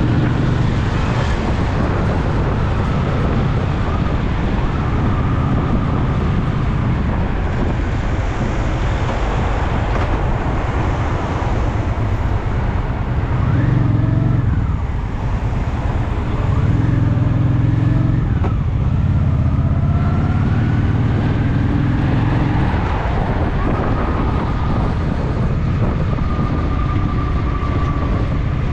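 Honda Shadow VT750's V-twin engine running under way. It eases off briefly about halfway through, then pulls again.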